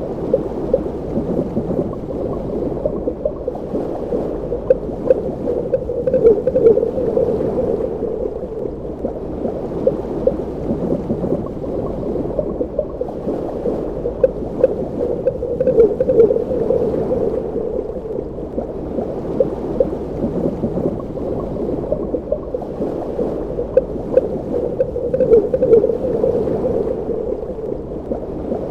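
Underwater ambience: steady muffled bubbling and gurgling water, swelling about every nine to ten seconds.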